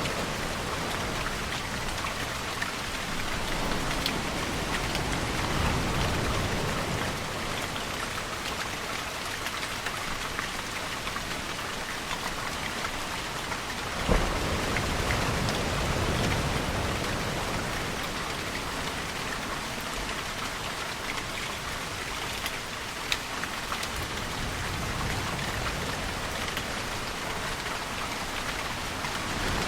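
Steady rain falling as a dense, even hiss. Beneath it a deeper rumble swells and fades three times, and there is a single sharp snap about fourteen seconds in.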